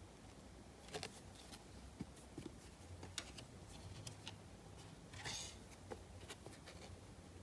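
Trading cards being handled over a low steady hum: scattered soft clicks and taps, with a brief rustle or slide about five seconds in.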